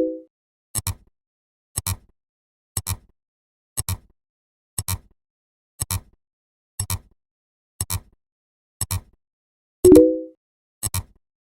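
Short double clicks from a sound effect, repeating about once a second. A louder, brief pitched blip comes in just before the end, as a count steps forward.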